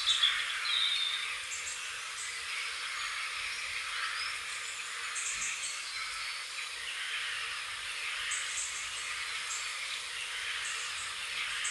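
Birds chirping and calling over a steady, hiss-like background chorus, with short, high chirps recurring every second or two.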